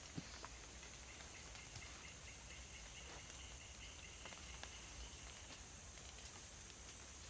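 Faint forest ambience after rain: a steady high-pitched insect drone, with a rapid pulsing call for a few seconds in the middle and scattered small ticks.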